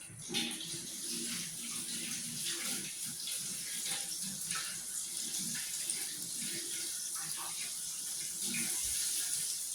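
Flour-breaded buttermilk chicken frying in hot oil in a pan: a steady sizzle that starts abruptly at the start and keeps going.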